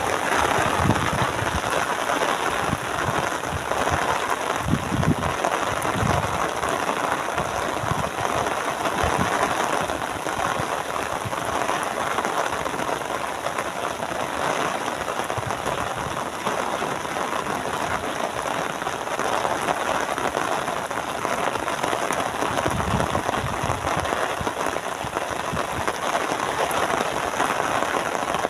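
Steady rain falling, an even dense patter, with a few low thuds in the first six seconds and again about 23 seconds in.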